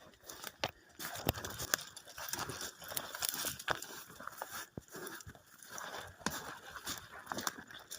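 Footsteps pushing through thick, dry brush: an irregular run of crunching and snapping twigs and leaves, with brushing and rustling in between.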